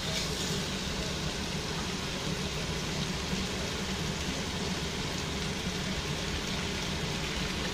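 Chicken wings and diced bell peppers sizzling in a stainless steel wok, a steady hiss.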